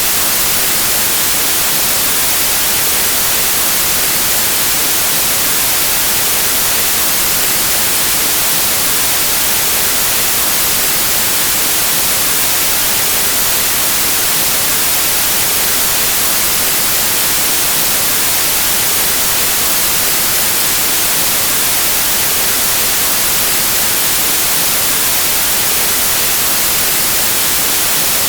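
Steady, unchanging white noise: an even static hiss, strongest in the high end.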